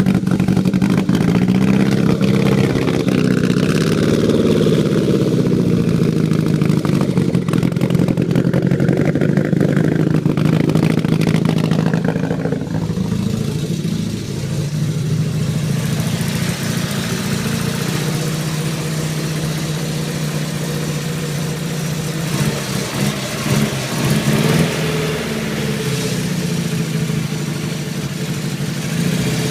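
Nissan S14's engine running on its first start-up, not yet tuned. For about the first twelve seconds it holds a raised idle whose pitch wavers up and down. About halfway through it drops to a lower idle that is still slightly uneven.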